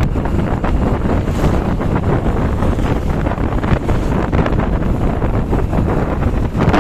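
Wind buffeting the microphone while riding at speed, a steady low rumble.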